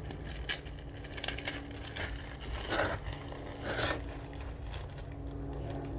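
A few short rustling, scraping sounds of sawdust being handled on a tumbler, over a steady low hum.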